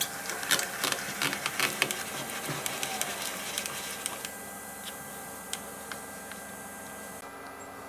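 Rapid, irregular light clicking and clattering of small hard objects, dense for about the first four seconds, then thinning to a few scattered clicks.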